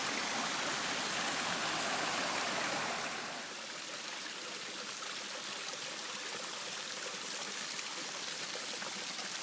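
Waterfall rushing steadily, with no other sound over it; it drops a little in loudness about three and a half seconds in.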